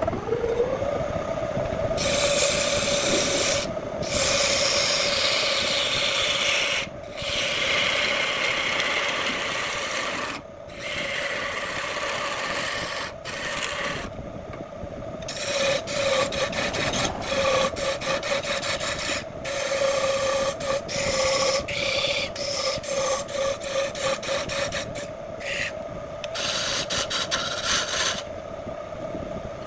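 Wood lathe motor spinning up to a steady hum, with a turning tool cutting the spinning wood: long scraping passes at first, then quick short touches of the tool from about halfway in.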